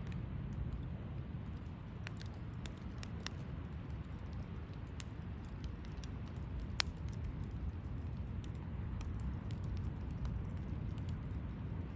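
Wood campfire burning: a steady low rumble with scattered crackles and small pops, one sharper pop a little past halfway.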